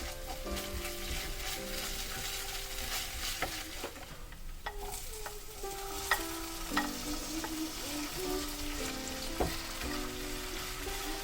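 Food sizzling in a hot pan while being stirred, with a few sharp clicks of a utensil against the pan.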